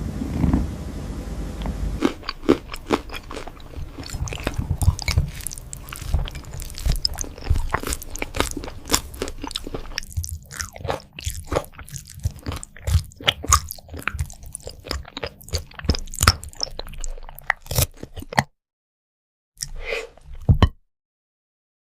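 Cat chewing crunchy food: a quick, uneven run of crisp crunches and bites, broken by two short silent gaps near the end.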